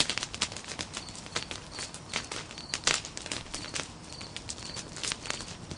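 Wood fire crackling, a nodya: long logs burning along their length, with constant irregular sharp pops and snaps, the loudest about three seconds in.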